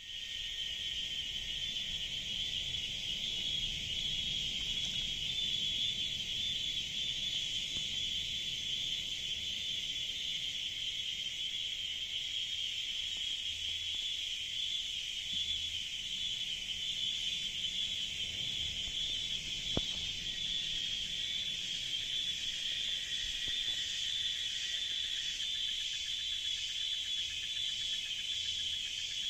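Cicadas buzzing in a steady, unbroken high-pitched chorus, taking on a fast pulsing near the end. A single faint click about twenty seconds in.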